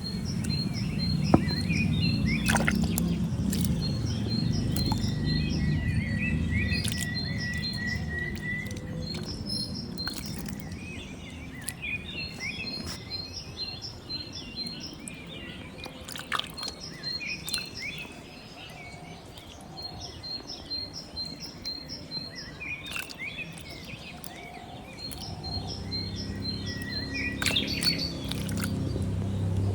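Birds chirping in quick repeated series of short high notes, over a low rumble that fades in the middle and comes back near the end.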